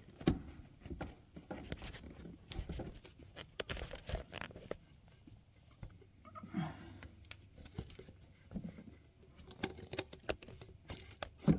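Scattered light clicks, scrapes and rustles of hand work on the rubber heater hose and its clamp, with a louder knock near the end.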